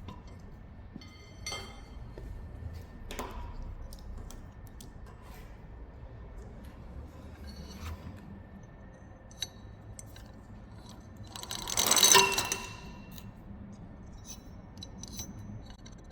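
Scattered light metal clinks and taps of steel parts and tools being handled, with one louder metallic clang about three-quarters of the way in that rings on for about a second.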